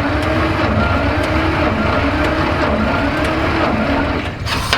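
1948 Dodge truck's 218 flathead inline six being turned over by its 6-volt starter, cranking steadily with a rhythmic rise and fall but never firing, since the ignition is giving no spark. The cranking stops shortly before the end.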